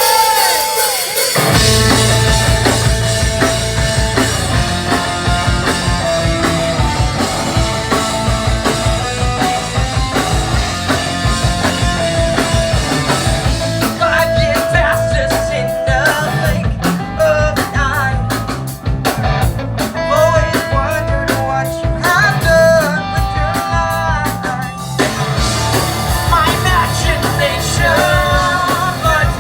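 Live rock band music with singing; the full band comes in about a second and a half in.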